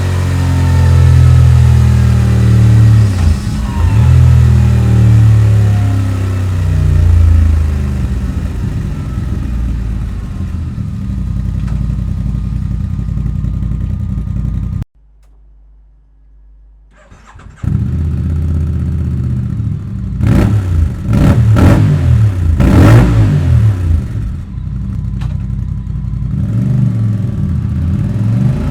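Voge DS 625 X motorcycle's parallel-twin engine, breathing through a Scorpion stainless slip-on exhaust, running hard on a dyno. It cuts out for about two and a half seconds around the middle, then comes back with a series of quick throttle blips rising and falling in pitch.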